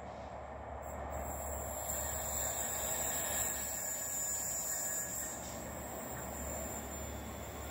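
High Speed Train with Class 43 diesel power cars approaching from a distance: a faint low rumble and a thin high-pitched whine, slowly growing louder.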